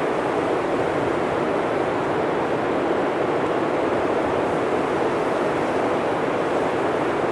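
Blizzard wind blowing steadily, a dense rushing noise that does not rise or fall.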